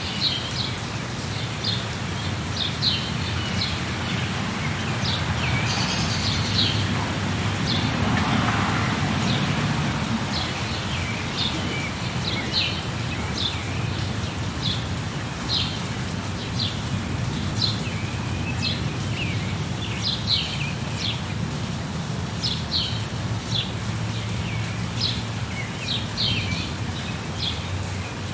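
Birds chirping over a steady hiss of rain: short high chirps repeat every second or so. The background noise swells for a few seconds around eight seconds in.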